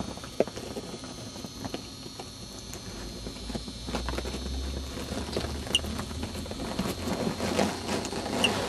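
Faint scratching and light clicks around a hatching parakeet egg, with two brief high peeps from the newly hatching parakeet chick, one about six seconds in and one near the end.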